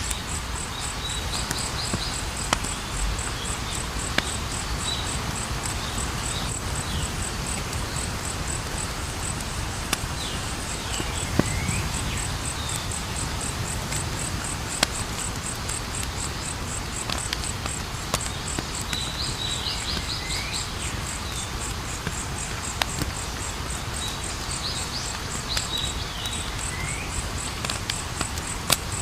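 Wood fire burning with a low rumble and scattered sharp crackles and pops, over a steady, evenly pulsing cricket chirp. A few clusters of short high chirping calls come and go.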